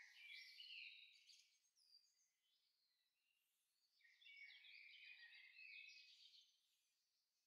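Faint birdsong: high, quick chirping phrases in two spells, one at the start and one from about four seconds in, lasting a couple of seconds each.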